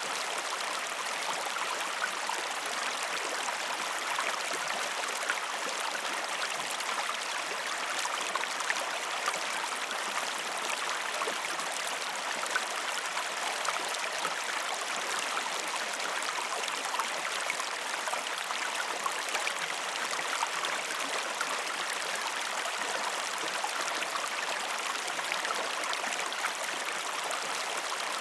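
A waterfall rushing steadily, water splashing with a constant hiss and many small splatters, with little deep rumble.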